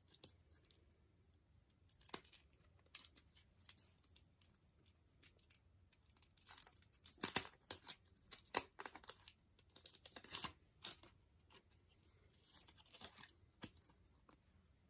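Packaging being torn open and crinkled by hand: an irregular series of rips and crackles, loudest in the middle of the stretch and fading near the end.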